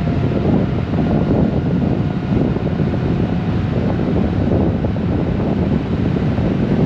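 Steady wind rush buffeting the microphone of a Honda Gold Wing motorcycle under way, with the bike's engine and road noise underneath.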